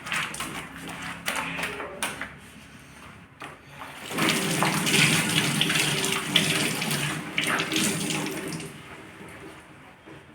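Water running from a kitchen tap into a sink, loudest for about four seconds in the middle and fading near the end, with a few sharp knocks before it.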